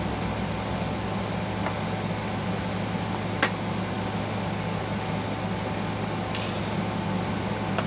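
Steady low mechanical hum, with one sharp click about three and a half seconds in and a fainter one earlier.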